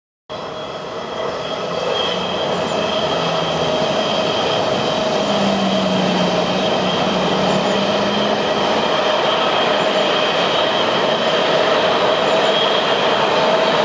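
NS 1700-class electric locomotive with a rake of ICRm intercity coaches passing close by: the steady rolling noise of wheels on rails, with a steady high whine over it, slowly growing louder.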